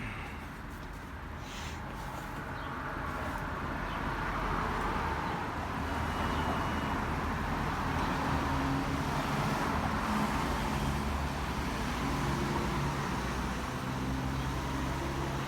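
Road traffic: a steady rush of tyres and engines that grows louder over the first few seconds and stays up, with a low engine hum underneath.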